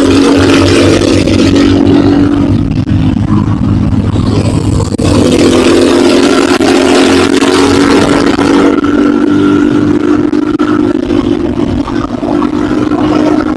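Enduro motorcycle engine running under load while riding, its note holding mostly steady, with a brief dip about five seconds in.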